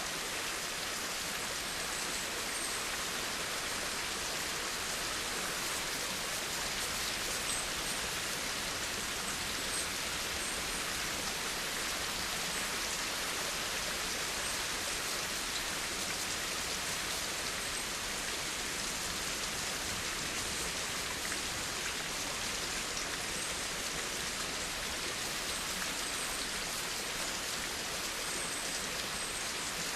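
Steady rain falling, an even hiss of rain on surfaces with no let-up or change.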